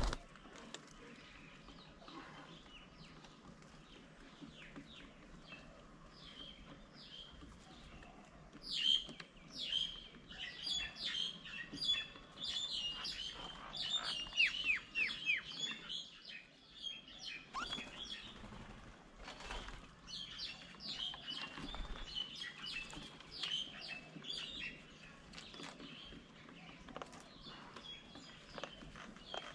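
Birds chirping, sparse at first, then a busy run of rapid, overlapping chirps with quick downward sweeps from about nine seconds in.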